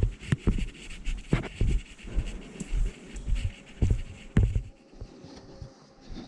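Irregular low thumps of footsteps and a handheld camera being carried while walking, with a steady hiss that drops away about three quarters of the way through.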